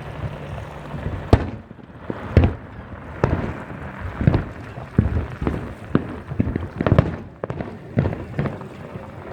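Fireworks bursting in a run of separate booms and cracks, one or two a second, with the loudest bangs about a second in, near two and a half seconds, and around seven seconds.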